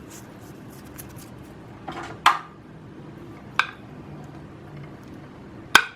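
Kitchen dishes and utensils clinking as salt is added to a bowl of marinating chicken: three sharp knocks, about one and a half to two seconds apart, with faint small ticks between.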